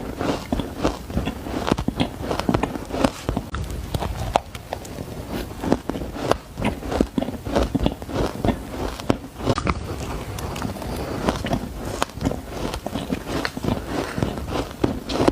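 Spoonfuls of shaved ice being bitten and chewed: a dense, irregular run of crisp crunches, several a second.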